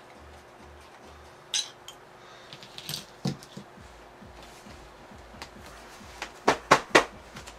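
Small metal parts and tools clinking and knocking on a hard surface while a sumo robot is dismantled, with three sharp knocks in quick succession near the end.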